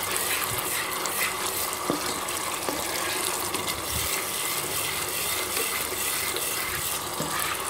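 Tomato and ginger-garlic paste frying in oil in a kadai: a steady sizzle, with faint scrapes and taps from a slotted spatula stirring it.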